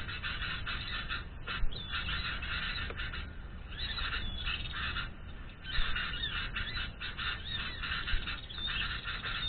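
Birds calling without pause, a dense run of rapid, harsh chattering calls. The calls thin out for a couple of seconds midway, and a couple of low thumps are heard.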